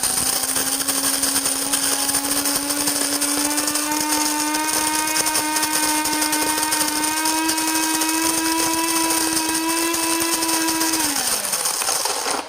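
Cuisinart DBM-8 Supreme Grind automatic burr mill grinding coffee beans on a medium setting. It gives a steady motor hum with grinding noise, its pitch creeping slightly upward. Near the end it winds down and stops by itself once it has ground the measured amount for four cups.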